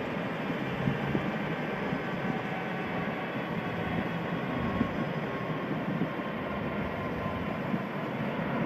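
AW109 Power twin-turbine helicopter running, a steady rush of engine and rotor noise with a faint turbine whine.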